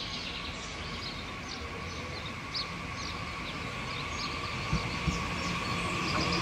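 Small birds chirping over the rising sound of an approaching Twindexx double-deck electric train, which grows steadily louder toward the end.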